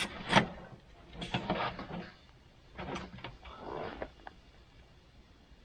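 Makeshift stovepipe being handled and fitted onto a wood stove: a run of irregular scrapes and knocks that dies away after about four seconds.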